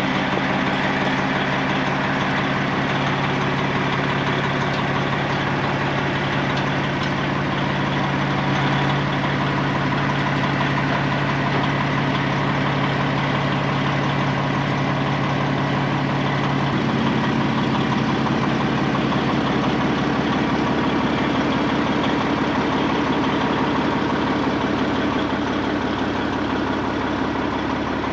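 Heavy-duty truck's diesel engine idling steadily; its note shifts about 17 seconds in.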